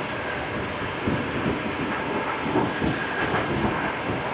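Passenger sleeper train running along the track, heard from inside its compartment: a steady rumble of the wheels and carriage, with a few faint knocks.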